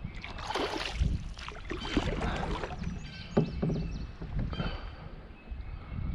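Water splashing and sloshing around a plastic fishing kayak, with a sharp knock on the hull about three and a half seconds in.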